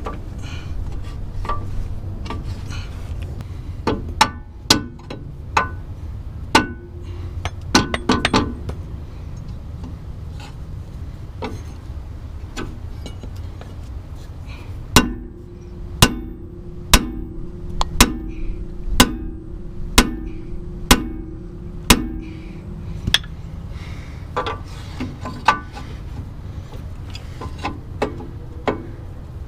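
Hammer blows on a bent steel lower control arm bracket, hammering out rock damage so a bolt-on skid plate will fit. An irregular flurry of strikes is followed, from about halfway in, by a run of about one blow a second with a ringing metallic note, then scattered blows near the end.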